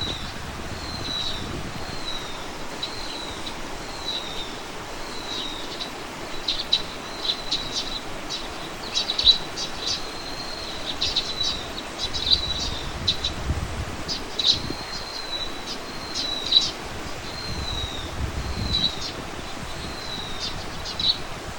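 Birds calling: one bird repeats a short, high, downward-sliding note about once a second, while quick sharp ticking calls come in clusters through the middle. A low wind rumble rises briefly twice.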